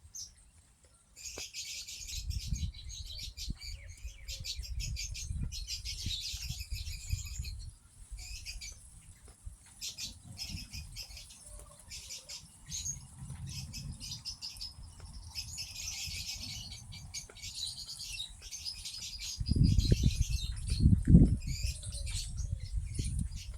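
A crowd of small birds chirping busily in rapid overlapping calls. Low rumbling thumps come and go underneath, loudest near the end.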